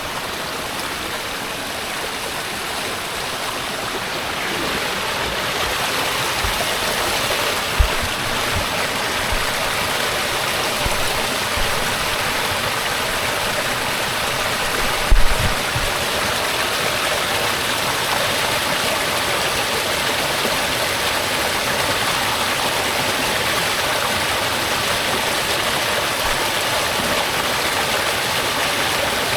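Steady rush of a rocky creek's small waterfall, with a dull low bump twice along the way.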